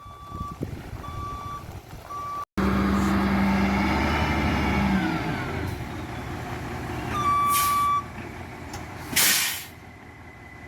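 Dump truck backing up, its reversing alarm beeping at an even pace, then its engine running loud with a longer single beep. A short hiss of air brakes comes near the end.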